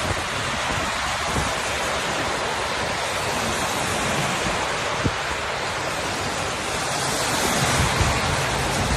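Steady rain pouring down in a thunderstorm, an even hiss, with low uneven rumbling near the end.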